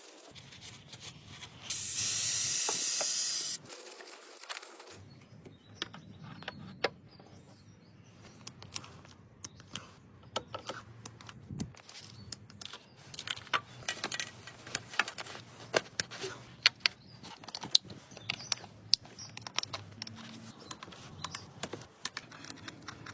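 A hiss of spray lasting about two seconds, then a long run of irregular light clicks and ticks.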